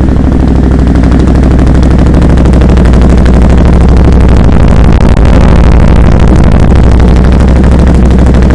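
Off-road vehicle's engine running through an aftermarket HMF exhaust tuned with the HMF optimizer, giving a loud, steady stream of rapid, even exhaust pulses; it is described as sounding more aggressive with the tuner.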